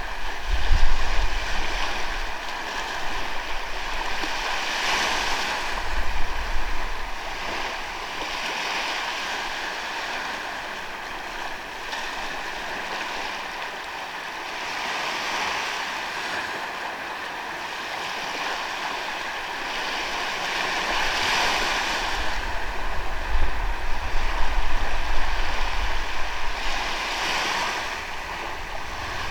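Ocean waves breaking and washing up on a sandy beach: a continuous wash of surf that swells and fades every few seconds. Now and then wind rumbles on the microphone.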